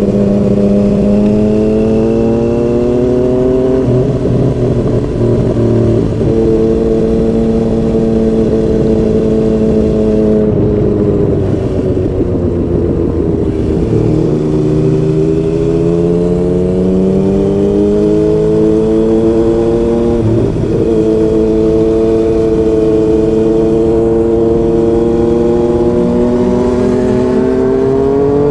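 Yamaha MT-09's inline-three engine through a Yoshimura R55 slip-on exhaust, accelerating through the gears. The note climbs and dips briefly at upshifts a few seconds in and about two-thirds of the way through. Around the middle it eases off and falls in pitch for a few seconds, then pulls hard again, rising to the end.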